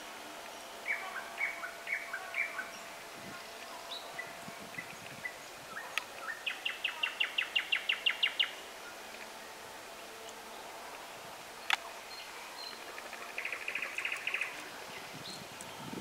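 Songbirds singing: short chirped phrases early on, then a rapid trill of about a dozen notes around the middle and another shorter trill near the end, with a single sharp click between them.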